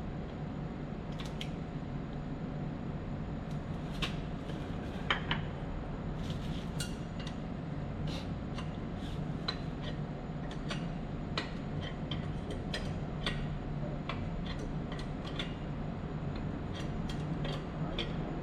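Irregular light metallic clinks and taps, like hand tools knocking against metal parts, over a steady low mechanical hum.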